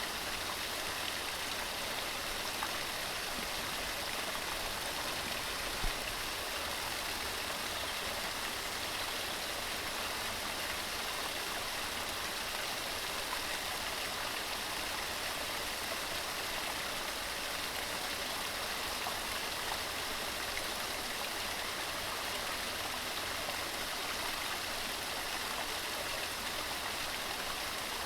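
Waterfall: water tumbling over rocks in a steady, unbroken rush, with a faint low knock about six seconds in.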